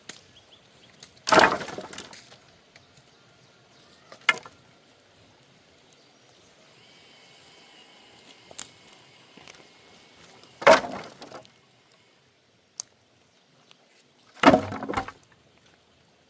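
Wood of a fallen tree cracking and breaking: three loud crashes with a short splintering crackle after each, about a second in, near eleven seconds and near fifteen seconds, and a smaller crack around four seconds.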